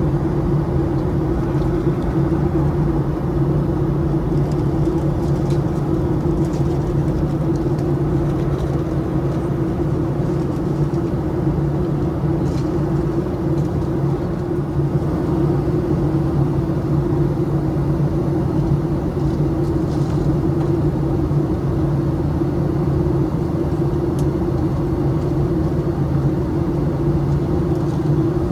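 Steady in-flight cabin noise of a Boeing 737-700: the drone of its CFM56-7B turbofan engines and the airflow around the fuselage, heard from a forward window seat as an even rumble with two low steady hums.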